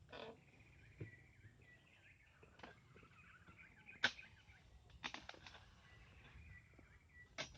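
Oil palm harvesting chisel (dodos) chopping into the palm: scattered sharp knocks, the loudest about four seconds in and a quick run of three just after five seconds. Birds chirp faintly in between.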